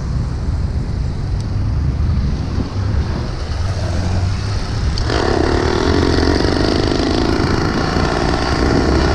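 Low rumble of wind on the microphone and street traffic, then about five seconds in a small engine starts abruptly and keeps running loud and steady.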